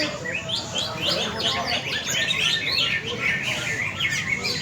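Many caged green leafbirds (cucak ijo) singing at once: a dense, unbroken chatter of quick overlapping chirps and short whistled sweeps.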